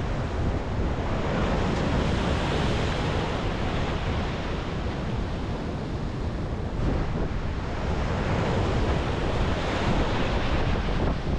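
Sea surf breaking and washing on the beach in steady, swelling rushes, with wind buffeting the microphone in a low rumble.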